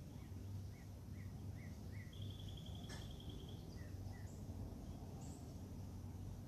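Small birds calling outdoors: a run of short rising chirps, then a rapid, even trill about two seconds in, followed by a few more scattered chirps. A steady low hum runs underneath, and there is a single sharp click about three seconds in.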